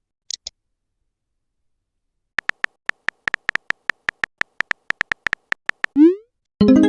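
Phone keyboard typing sound effect: about twenty short clicks at an uneven pace, then a short rising whoosh as a message is sent, and a pitched notification chime right at the end.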